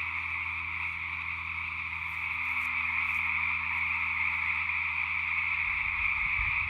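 Dense chorus of many frogs calling at once, a steady high-pitched wall of sound that dips slightly and swells again.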